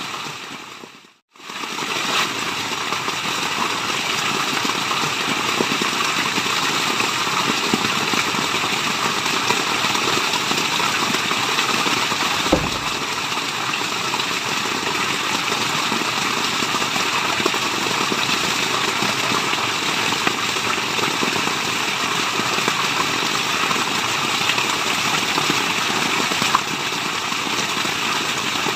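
Waterfall water rushing in a steady, dense roar of white noise. About a second in it fades out to silence for a moment and then comes back at full level.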